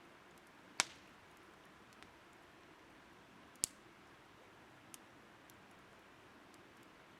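Burning firewood crackling in a campfire. Two sharp pops come about three seconds apart, with a few fainter snaps between and after them, over a steady soft hiss of flowing river water.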